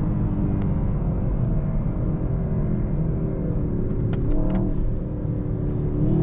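Mercedes-AMG S63's twin-turbo V8 running under way, its note slowly dropping as the car eases off. About four and a half seconds in come a few short cracks and a jump in pitch, and the engine rises in pitch again near the end as it pulls.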